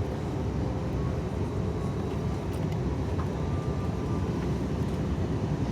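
Steady low rumble of an Airbus A321neo's cabin in flight on descent: engine and airflow noise heard from inside, even and unchanging.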